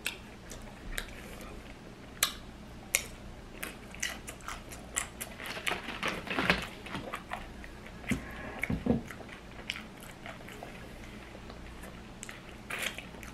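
Close-up chewing and crunching of a loaded fried tortilla nacho chip: a run of sharp, crackly crunches, busiest in the middle. A couple of dull knocks come around eight or nine seconds in.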